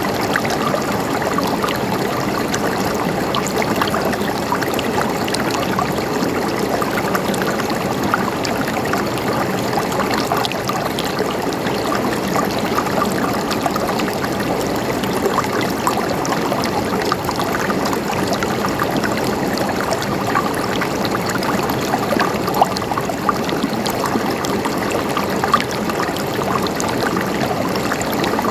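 Mountain stream flowing and gurgling over rocks: a steady, even rush of water with small splashes and trickles.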